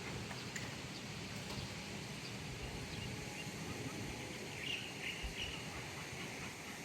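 Steady ambient background noise with a few short, high chirps about five seconds in.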